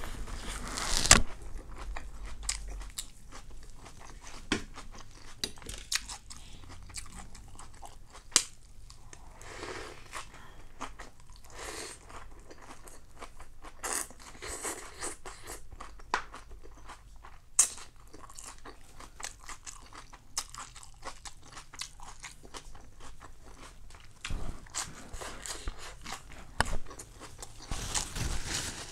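Close-up chewing and biting of crispy rice pancake (bánh xèo): a run of irregular crisp crunches and crackles, with a few sharper bites standing out.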